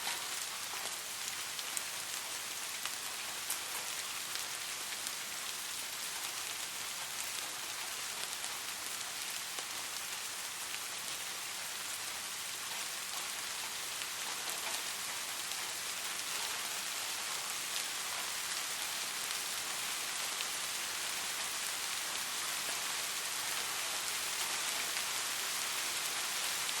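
Steady rain falling on a surface, an even hiss of many drops with scattered sharper drip ticks, used as white noise.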